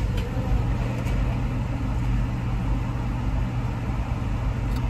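A car's engine running, heard from inside the cabin as a steady low hum while the car moves forward at low speed.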